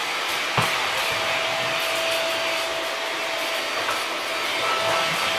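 Shark vacuum cleaner running steadily: a motor whine over a dense rush of air, with one short knock about half a second in.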